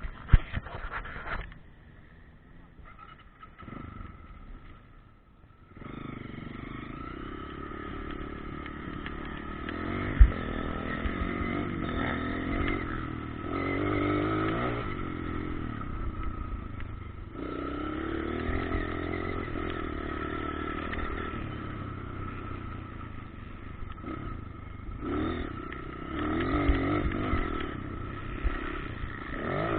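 Motocross dirt bike engines revving up and down as the bikes ride the track, coming in about six seconds in after a quieter opening. Two sharp knocks stand out, one right at the start and one about ten seconds in.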